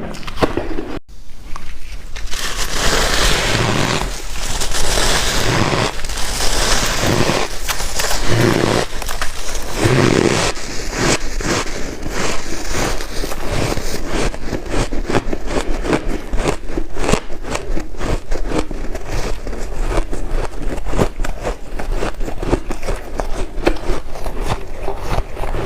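White freezer ice being bitten and chewed close to the microphone: dense, irregular crunching that thickens after a brief break about a second in.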